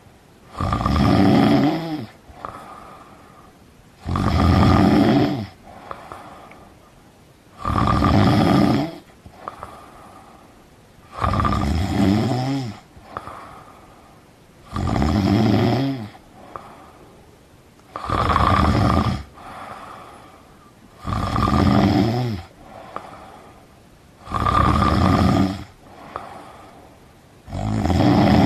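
A person snoring in deep sleep: a loud snore about every three and a half seconds, nine in all, with a quieter breath between each.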